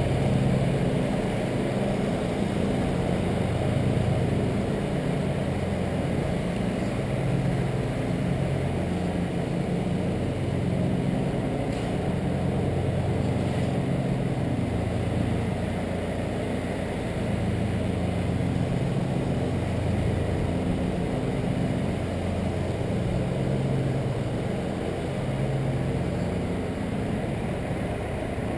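Truck engine running as the truck drives, heard from inside the cab, its note rising and falling with engine speed.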